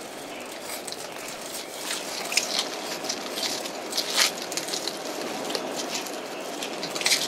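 Irregular crinkling and crackling of wrapping being folded around a whole stuffed fish, over a steady rush of stream water.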